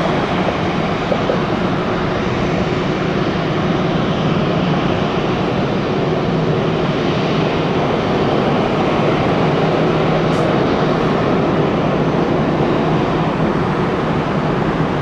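Departing Boeing 777-300 airliner's jet engines at takeoff power, a loud, steady jet noise that holds level throughout.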